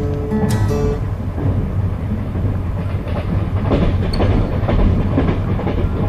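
Passenger train carriage running on the rails: a steady low rumble with the wheels clattering over rail joints, most clearly in the second half. A few held tones sound briefly in the first second.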